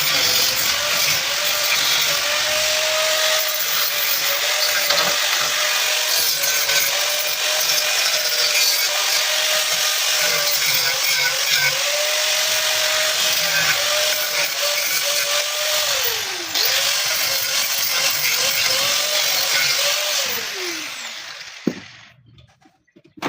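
An electric power tool's motor running steadily, its pitch sagging briefly twice as it takes load. It winds down and stops near the end, followed by a faint knock or two.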